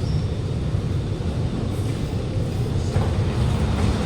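Alstom Movia R151 metro train giving off a steady low rumble, with no sudden knocks or changes.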